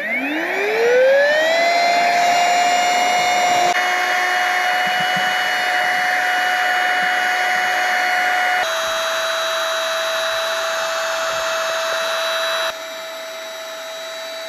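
Small electric air pump inflating a camping sleeping pad: it spins up with a rising whine over the first second and a half, then runs steadily. Its pitch drops slightly about two-thirds of the way through, and it gets quieter near the end.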